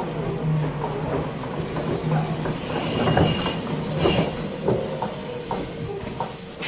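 Interior running sound of a Jōmō Electric Railway commuter car (an ex-Keio Inokashira Line car) as it slows toward a stop: a steady low hum with wheel clicks and short high-pitched squeals from the wheels and brakes in the middle, the noise easing off near the end.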